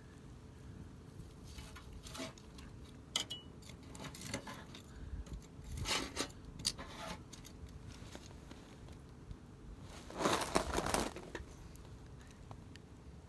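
Wood fire crackling, with scattered sharp pops and a denser run of crackling about ten seconds in.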